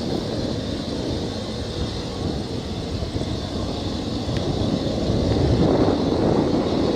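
A steady, noisy engine rumble that swells louder about five seconds in.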